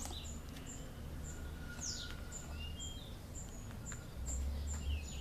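Small birds chirping in the background: a short high chirp repeated about twice a second, with a few falling whistled calls, over a steady low hum.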